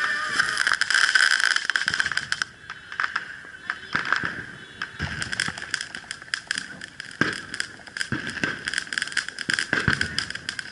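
Fireworks crackling and popping: a dense run of crackles for the first two seconds or so, then scattered pops with a few sharper cracks over a steady hiss.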